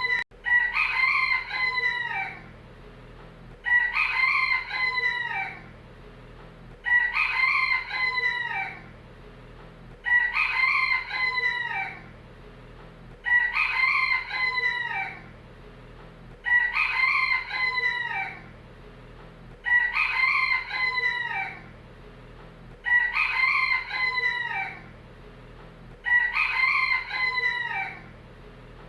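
A rooster crowing over and over, the same cock-a-doodle-doo repeating about every three seconds, nine times in all.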